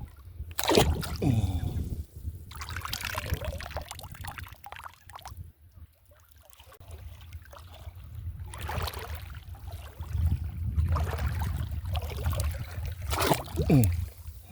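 Water sloshing and trickling in several surges of a second or two each, with two short falling pitched sounds, one near the start and one near the end.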